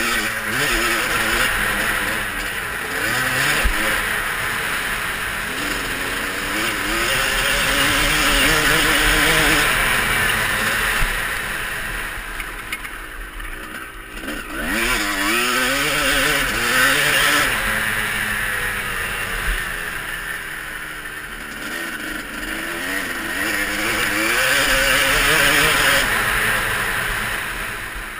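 Motocross bike engine revving up and easing off over and over as it is ridden, with a rushing noise over it. About halfway through the engine note drops away briefly, then climbs again.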